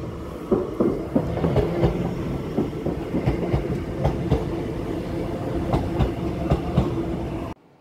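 Passenger train in motion, heard from inside the carriage: a steady rumble and hum with repeated sharp clicks of the wheels over the rail joints. It cuts off suddenly near the end.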